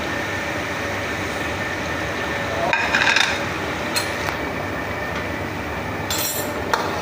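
Metal ladle scraping and clinking against a cooking pot a few times, about three, four and six seconds in, over a steady rushing background.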